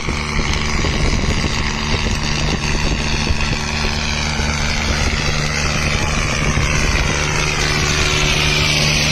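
Tractor engine running steadily, with a high whine that bends in pitch about eight seconds in.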